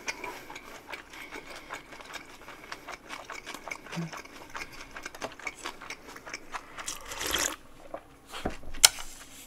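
Close-miked chewing of a dumpling, a dense run of small wet mouth clicks. About seven seconds in comes a short slurp of cold buckwheat noodles, then a single sharp click.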